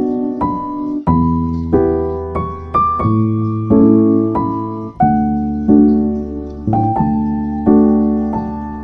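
Piano music: chords and melody notes struck about once a second over low bass notes, each note dying away after it is struck.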